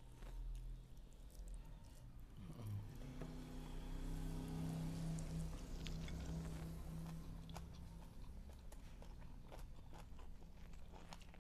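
Two people chewing food close to the microphone, with small wet mouth clicks and light crunches. A low steady hum runs through the middle of the stretch.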